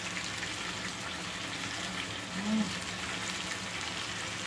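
Chicken pieces and onions frying in a pan, a steady sizzling hiss.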